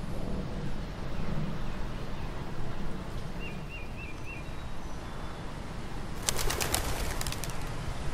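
Forest ambience with a steady low rumble; a bird gives four short chirps a few seconds in, and about six seconds in a bird's wings flap rapidly for just over a second, the loudest sound.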